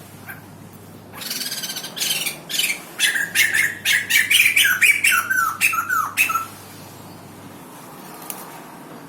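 White-crested laughingthrush calling: a harsh rasping note about a second in, then a fast run of loud squawking notes, about four a second, some falling in pitch near the end, stopping about six seconds in.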